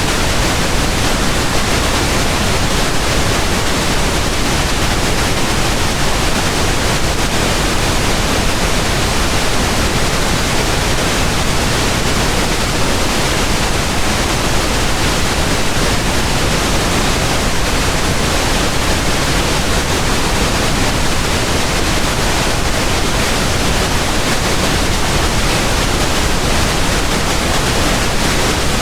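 Steady pink noise: an even, unchanging hiss across all pitches, deeper and softer than white noise, with no events or changes.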